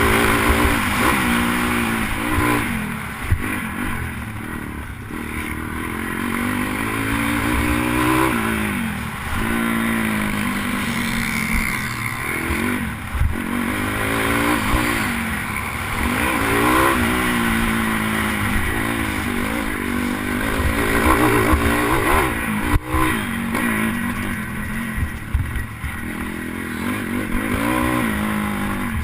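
Pit bike's single-cylinder engine revving under hard throttle, racing: the pitch climbs and drops back again and again, every second or two, as the rider accelerates, shifts and rolls off.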